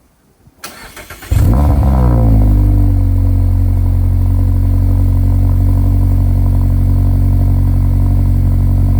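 2024 Mazda MX-5 with an HKS Legamax Premium aftermarket exhaust starting up. The starter cranks briefly, and the four-cylinder engine catches about a second in with a loud flare. Over the next couple of seconds it falls in pitch and settles into a steady idle.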